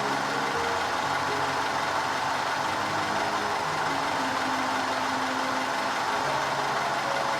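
Car engine idling steadily, with faint background music.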